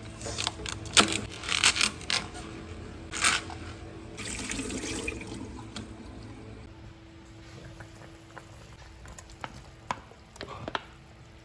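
Household handling noises: several sharp clicks and knocks in the first few seconds, then water running for about two seconds, and a few softer clicks near the end.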